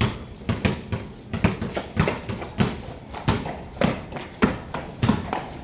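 Basketballs bouncing on a hard court, a string of irregular thuds at roughly two a second.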